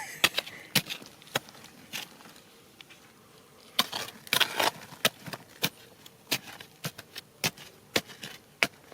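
Sharp, irregular knocks and clicks of hard objects striking, roughly one or two a second, with a short rough scraping rush about four seconds in.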